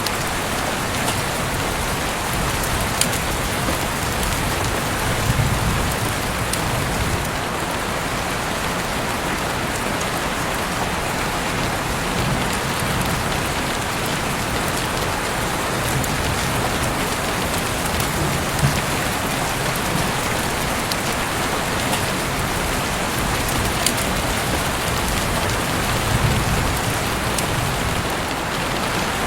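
Heavy rain falling steadily, a dense even hiss with a few sharper drop hits scattered through it and brief low swells now and then.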